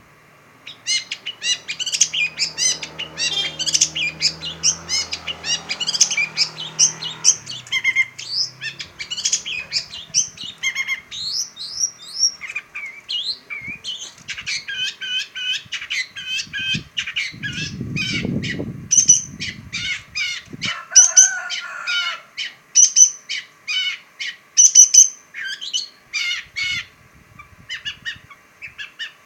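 Long-tailed shrike (pentet) singing a fast, varied chattering song: a dense run of short high notes and trills, starting about a second in.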